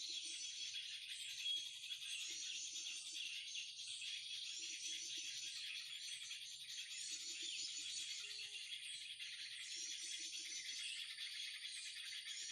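Many small birds chirping and twittering at once in a dense, steady chorus, lured by bird-trapping calls. A short high call repeats about once a second, and a brief low rattle comes every two to three seconds.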